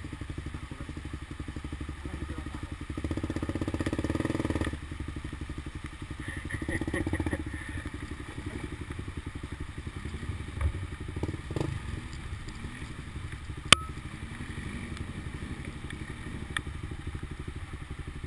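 Off-road motorcycle engine running, revved up twice in the first half, with scattered knocks and one sharp crack about two-thirds of the way through.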